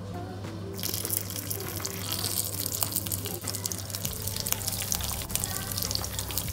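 Hot oil in a frying pan sizzling and crackling as king prawns are laid in. The sizzle starts suddenly about a second in and gets louder as more prawns go in.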